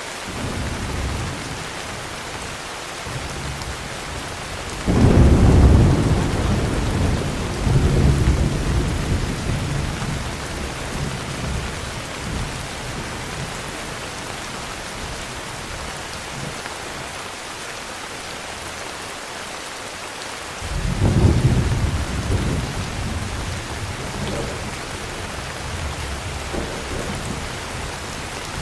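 Heavy rain falling steadily, with rolls of thunder: a rumble breaks about five seconds in and keeps rolling, with a second swell a few seconds later, then fades. Another rumble comes about twenty seconds in.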